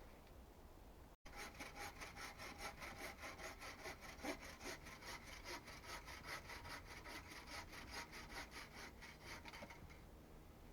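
Hand saw cutting through wood in quick, even back-and-forth strokes, several a second. It starts about a second in and stops near the end.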